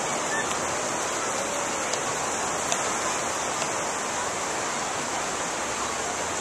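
Ocean surf washing onto the beach: a steady rushing of breaking waves.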